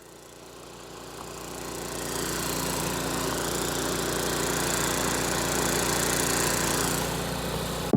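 A motor running steadily with a continuous hum, growing louder over the first couple of seconds and then holding.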